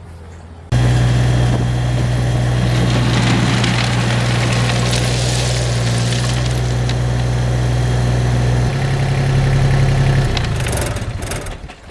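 Compact tractor's diesel engine (New Holland Workmaster 25S) running steadily at a constant pitch, cutting in abruptly just under a second in, changing slightly about three-quarters through and dying away near the end.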